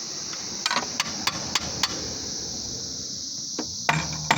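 Light hammer taps on metal during pump fitting work. There are about six sharp taps in the first two seconds, a pause, then more taps near the end, over a steady high-pitched hiss.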